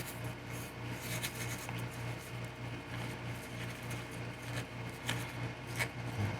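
Glass beads being stirred into acrylic gloss medium: faint, soft wet scraping with scattered small clicks, over a steady low hum.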